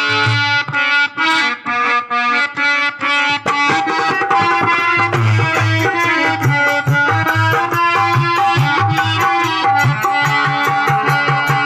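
Instrumental passage of Indian folk music: a reedy harmonium-like melody with a hand drum of the tabla or dholak kind. For the first few seconds the melody plays in short phrases with brief breaks, then the drum comes in with a steady beat under it.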